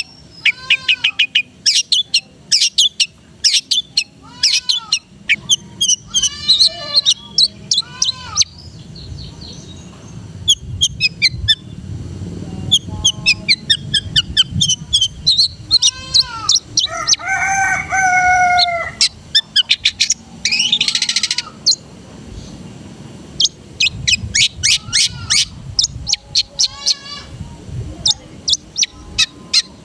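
Long-tailed shrike (cendet) singing a varied, mimicking song: runs of rapid sharp chirps and arched whistled notes, with a longer, harsher call with several tones at once about two-thirds of the way through.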